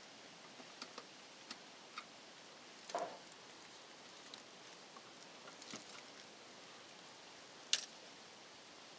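Faint, scattered clicks and taps of small tools and parts being handled, with a sharper click near the end.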